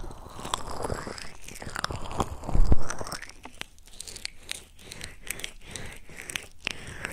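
Close-up ASMR trigger sounds on a microphone: rubbing and crackling with many small clicks, and a soft low thump about two and a half seconds in.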